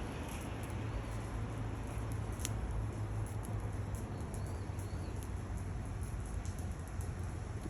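Firewood burning in a stainless steel Bush Box XL stove, giving off scattered small crackles and pops, with one sharper pop about two and a half seconds in. Under it runs a steady low rumble.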